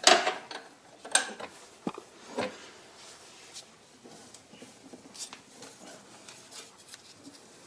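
Metal wrench clinking against the drive belt tensioner as it is fitted and worked to loosen the belt: a sharp clink at the start and a few more in the first couple of seconds, then faint scattered ticks.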